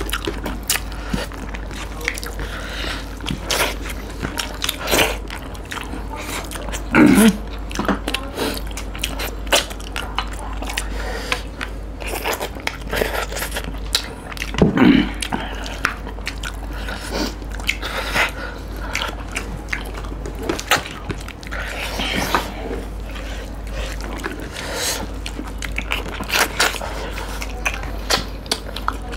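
Close-miked eating by two people: steady chewing and biting of rice and fried fish, with many small wet clicks and crunches and the squelch of hands mixing rice and curry. Two brief louder vocal noises from an eater about 7 and 15 seconds in.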